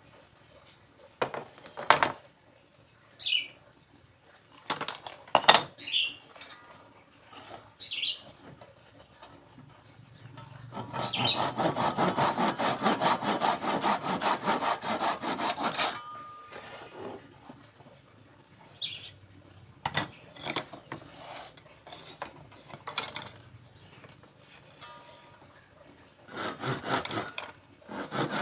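Saw cutting through bamboo in rapid, rhythmic strokes: one stretch of about five seconds near the middle, then sawing again starting near the end. Scattered knocks and clicks of handling bamboo fall between the sawing.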